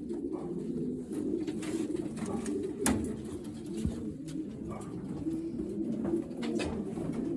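A loft full of racing pigeons cooing together, a continuous low burbling, with a sharp click about three seconds in.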